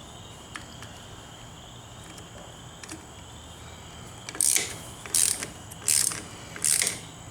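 Hand ratchet turning a screw on a motorcycle handgrip: four short ratcheting strokes about 0.7 s apart, starting about four seconds in, after a few faint ticks.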